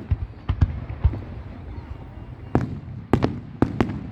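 Fireworks display: aerial shells bursting in irregular sharp bangs, a cluster in the first second and another in the last second and a half, with a lull of about a second and a half between them, over a steady low rumble.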